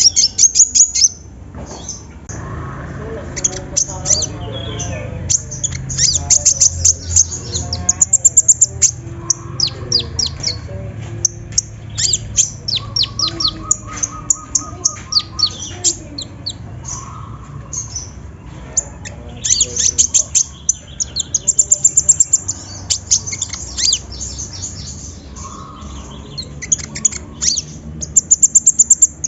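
Kolibri ninja (konin) sunbird singing: bursts of rapid, sharp, high chirps and trills. The loudest runs come about a quarter of the way in, about two-thirds through and near the end.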